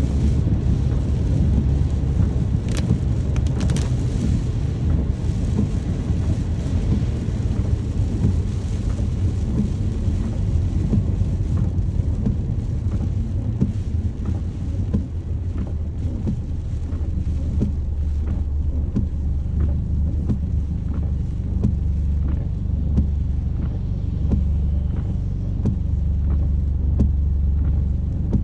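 Steady rain with a deep, continuous low rumble under it; from about halfway through, separate drops are heard ticking on a hard surface.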